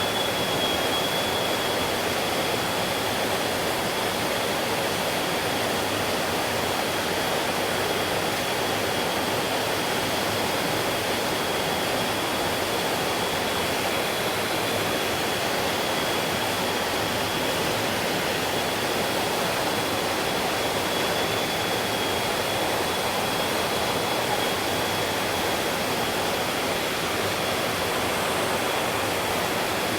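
Mountain stream water flowing and splashing steadily over rocks, an even rushing sound. A thin, steady high tone runs along with it.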